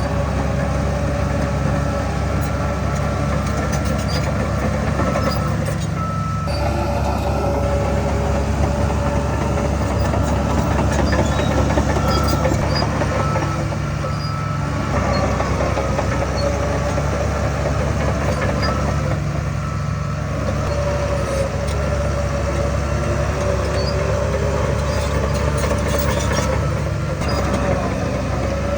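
Heavy diesel earthmoving machinery running steadily under load, a deep engine drone with a steady high whine over it.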